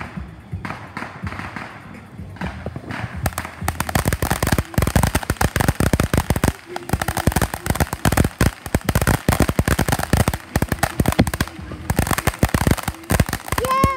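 Fireworks crackling. A few scattered pops at first, then from about three seconds in a dense, rapid run of many sharp cracks a second.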